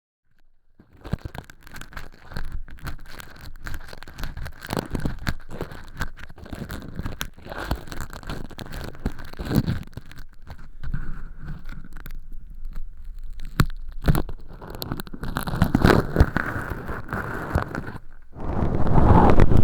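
Earpick scraping and scratching inside a silicone ear model's canal, peeling away thin-skin fake earwax with irregular crackly rustles and small clicks. Near the end a louder, denser rubbing sets in close to the microphone.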